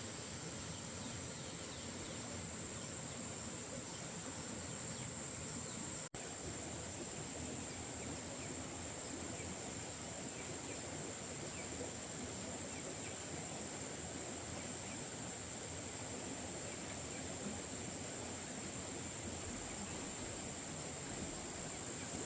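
Insects droning in a steady, high-pitched chorus over outdoor background noise, breaking off for an instant about six seconds in.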